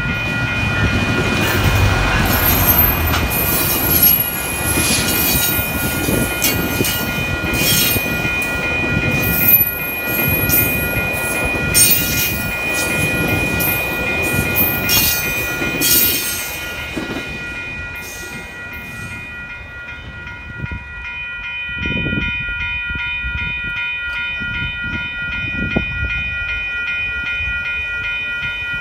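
GO Transit diesel-hauled bilevel commuter train passing over a level crossing: the locomotive's engine rumbles by and the wheels clack over the rails for about 17 seconds, then the train noise dies away. The crossing's warning bells ring steadily throughout and carry on after the train has cleared.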